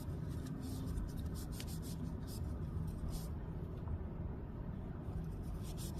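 Rapid scratchy rubbing strokes from hands working on parts, over a steady low rumble. The strokes stop a little past halfway and start again near the end.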